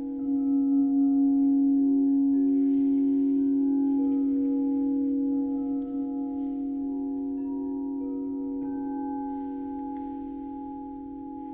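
Singing bowls ringing: several long overlapping tones that waver slightly, swelling just after the start and slowly dying away, with another bowl struck near the end adding a higher tone.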